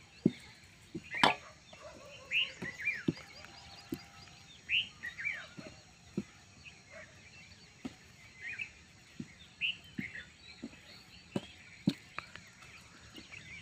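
Birds chirping outdoors in short, curving calls every second or two. Underneath are soft low thuds about once a second, and there is one sharp click about a second in.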